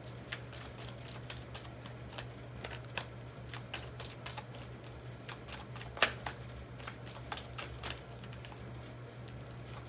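Tarot cards being shuffled and handled by hand: an irregular patter of light clicks and taps, with a few sharper snaps about six seconds in, over a steady low electrical hum.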